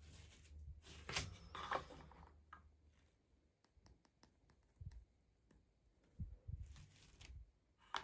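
Toy packaging being handled and opened: a short tearing or rustling of packaging about a second in, scattered small clicks, and a few dull knocks later on.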